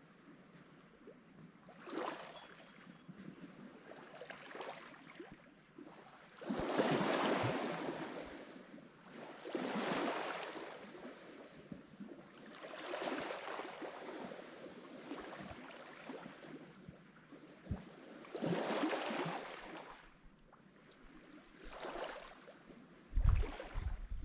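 Lake Michigan waves breaking on the shore, a fresh wash of surf every few seconds that swells and fades, the biggest a little before the middle. A loud low rumble starts near the end.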